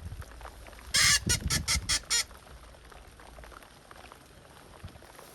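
Hand-blown duck call: a series of about six loud, raspy quacks, a longer first note followed by quick short ones, about a second in.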